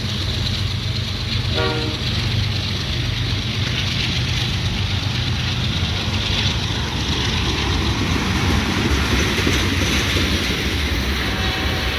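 A CSX freight train passing slowly: a steady diesel locomotive rumble under continuous rail and wheel noise, with a brief tone about two seconds in.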